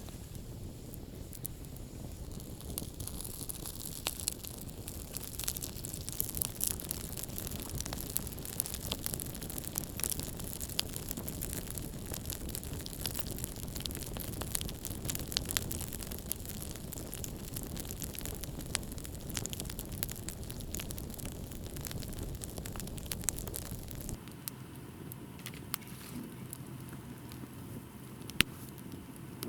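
Wood campfire crackling, with many sharp pops over a low hiss. About 24 seconds in, the sound changes abruptly and thins out.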